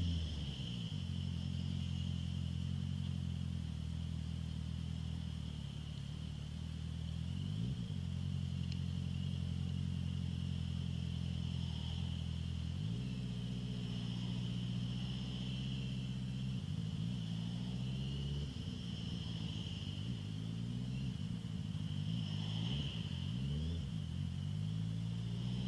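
Honda CBR650F inline-four with an Akrapovic full exhaust, running at low, fairly steady revs. The note drops right at the start, then shifts with small throttle changes in the second half and rises again at the very end.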